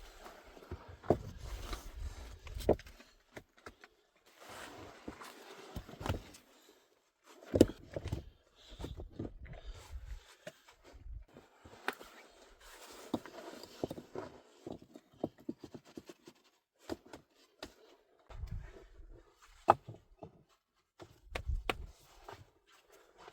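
Irregular knocks, scrapes and crunching steps of someone working by hand, with a few sharp clicks, the loudest about a third of the way in.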